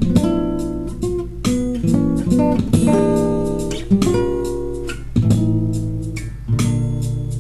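Acoustic guitar playing an instrumental passage of plucked and strummed chords between sung verses.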